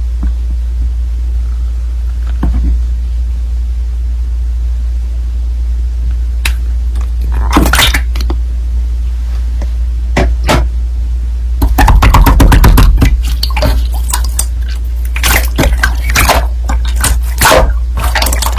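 Slime being squished and pressed by hand: a few isolated clicks and wet pops at first, then dense crackling and squelching from about two-thirds of the way in, over a steady low hum.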